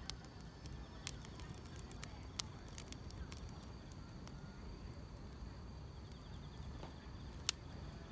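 Wood fire crackling, with scattered sharp pops over a low rumble. The loudest pop comes about seven and a half seconds in. Faint insects chirr high and steady underneath.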